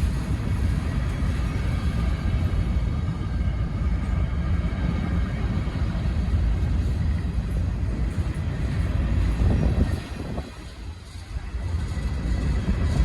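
Freight train of hopper cars rolling past with a steady low rumble, briefly quieter about ten seconds in.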